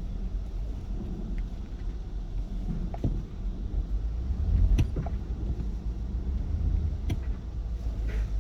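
Low, steady rumble of a motor vehicle running nearby, with a few light knocks about three, five and seven seconds in.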